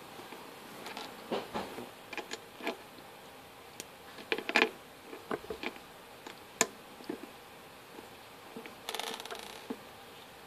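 Irregular light clicks and taps, some in quick clusters with the loudest about four and a half seconds in, and a short rattling buzz about nine seconds in.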